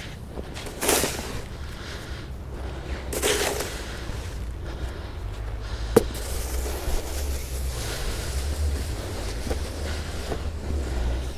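Snow shovel working snow: two short scrapes in the first few seconds and a sharp knock of the blade about six seconds in, over a steady low rumble of wind on the microphone.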